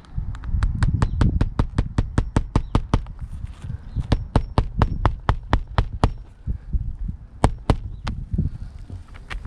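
Quick runs of sharp clicking taps, about five a second, stopping and starting, over a low rumble of wind on the microphone.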